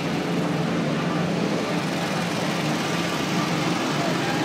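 Steady din of race car engines running, holding an even pitch with no revving, over a murmur of crowd voices.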